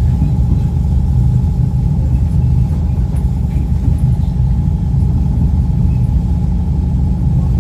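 Steady low rumble of a moving passenger train heard inside the carriage, with a faint steady hum above it.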